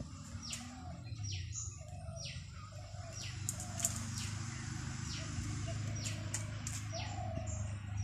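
Several wild birds calling: a high note that slides quickly downward, repeated about once a second, over short lower warbled notes. A steady low rumble runs underneath.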